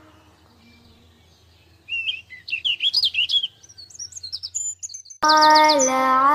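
Small birds chirping in quick, high twittering calls, starting about two seconds in and lasting about three seconds; music with sustained pitched notes cuts back in near the end.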